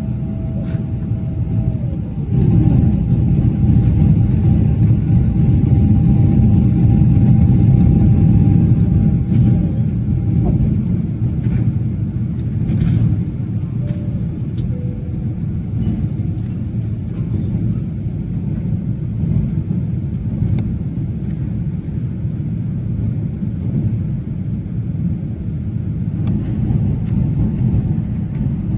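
Airliner cabin noise: a steady low rumble of the jet engines and airflow. A faint whine slides down in pitch about two seconds in.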